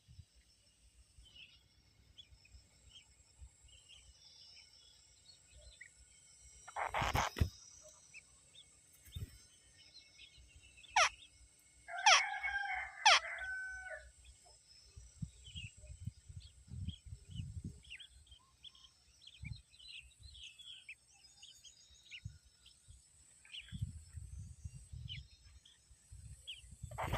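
A rooster crowing once, a call of about two seconds around the middle, over faint scattered chirps of small birds and a steady high insect drone. A brief thump comes about seven seconds in.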